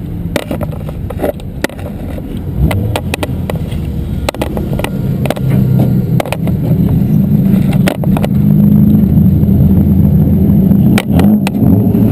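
Race car engine running at low speed, heard from inside its stripped, roll-caged cabin, with frequent sharp clicks and rattles. The engine grows louder about six seconds in.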